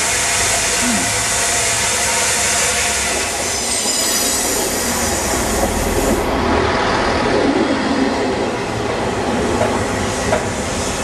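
Steam locomotive, Southern Railway 850 'Lord Nelson', passing through the station with its train, a steady hiss of steam over the rumble and a brief squeal of wheels. About six seconds in the hiss stops abruptly and a diesel multiple unit runs close by, its wheels rumbling and knocking over the rail joints.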